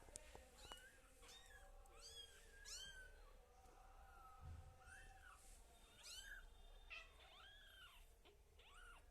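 Persian kitten mewing faintly and repeatedly: about a dozen short, high mews, each rising and falling in pitch.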